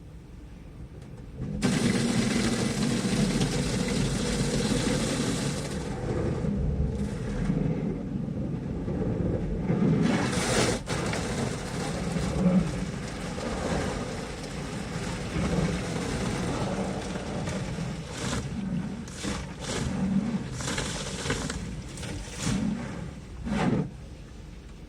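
Water spraying onto a car during a hand car wash. It starts suddenly about a second and a half in and then comes in uneven surges and short bursts.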